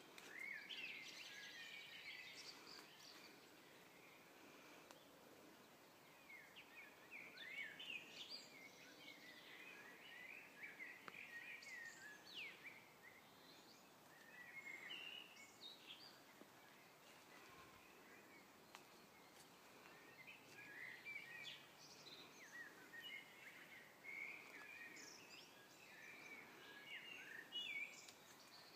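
Faint woodland birdsong: many short chirps and quick twittering phrases from small birds, coming in clusters every few seconds over a quiet background hiss.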